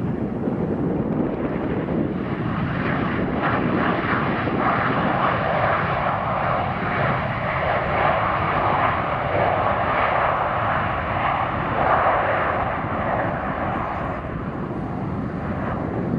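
Jet airliner passing, its engine roar building through the middle and easing off near the end.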